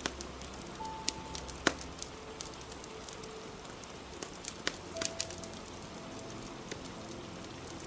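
Fireplace crackling with scattered sharp pops over steady rain, the loudest pop about a second and a half in and a cluster of pops around five seconds in. A few soft, held musical notes sound underneath.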